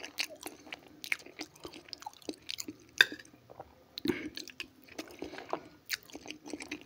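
Close-up chewing and biting of fried potatoes and pork shashlik, with sharp clinks and scrapes of a metal spoon against the plate; the loudest clink comes about three seconds in.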